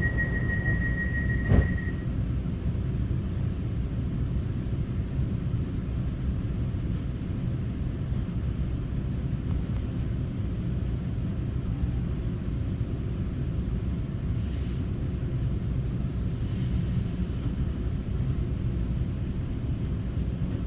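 Taiwan Railway EMU900 electric multiple unit running, a steady low rumble from wheels and motors on the track. Near the start a steady high tone sounds, a single sharp knock comes about one and a half seconds in, and the tone stops just after.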